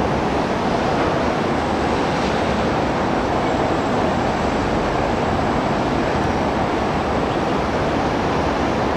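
Steady rumble of an MTR C-Train running on an elevated track, mixed with road traffic noise, with no single event standing out.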